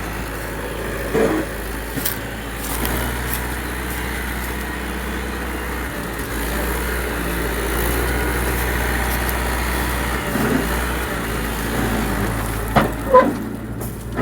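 Tractor engine running steadily, with a few short knocks, the loudest near the end.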